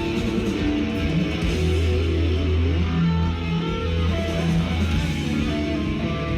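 Hard rock band playing live: distorted electric guitar plays melodic lead lines over held bass guitar notes, with no singing.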